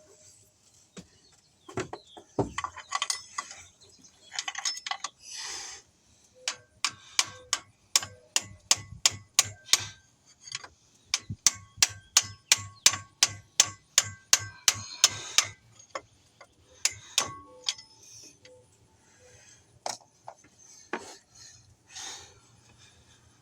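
A run of sharp knocks or clicks, about three a second for some nine seconds in the middle, with faint ringing under them, and scattered single knocks before and after.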